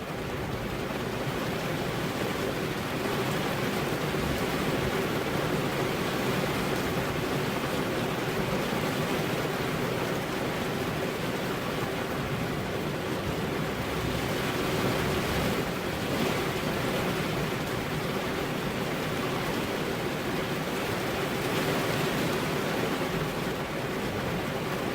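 Steady rain falling, an even unbroken hiss, with a faint steady hum beneath it.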